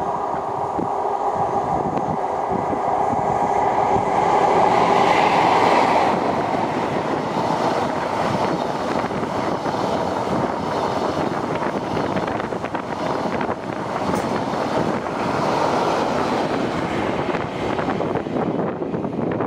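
InterCity 125 high-speed train passing at speed. The leading diesel power car's engine note builds to its loudest about five seconds in. The coaches then rush past with rapid clicking of wheels on rail, swelling again as the rear power car goes by near the end.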